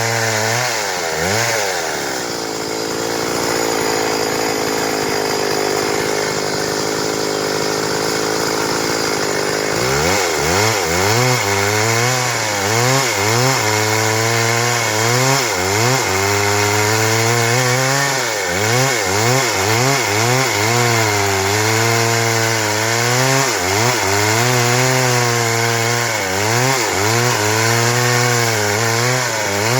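Stihl MS 382 two-stroke chainsaw cutting wood at full throttle. For several seconds the engine holds a steady pitch under load. After that its pitch dips and climbs back over and over as the chain bites into the cut and frees up.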